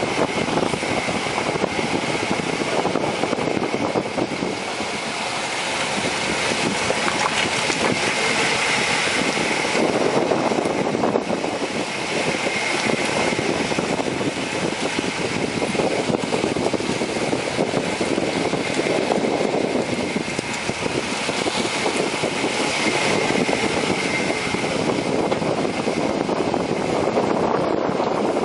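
Running noise picked up under the front passenger side of a moving Ford Expedition 4x4: a steady rush of tyre, wind and drivetrain noise, with a thin high whine that swells and fades every few seconds.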